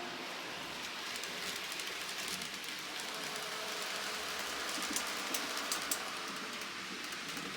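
Model train running on the layout's track: a steady rushing noise with faint motor hum and a few sharp clicks about five to six seconds in.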